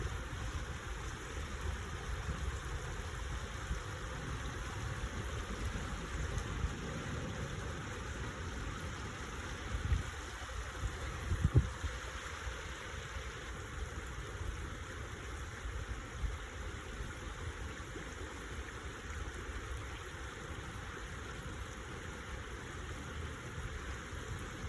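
Stream water flowing with a steady rush and babble. A few low bumps and rumbles come about ten and twelve seconds in.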